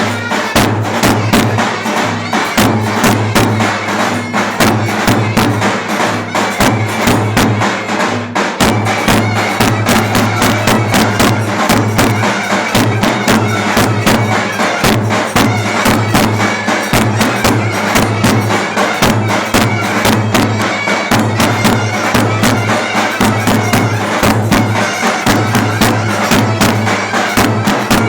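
Turkish clarinet and davul drum playing a lively folk dance tune, the clarinet carrying the melody over a fast, steady drum beat.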